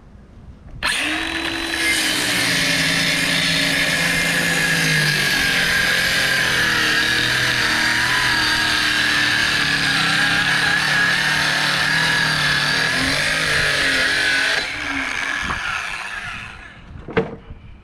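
Electric power tool running under load for about fourteen seconds, its motor pitch wavering, then winding down, with a sharp click near the end.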